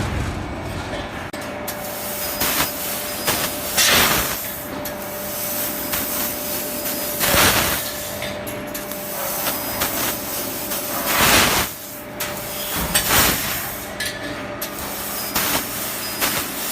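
Fiber laser tube cutting machine running, with a steady machine noise and faint hum, broken by four loud hissing bursts a few seconds apart.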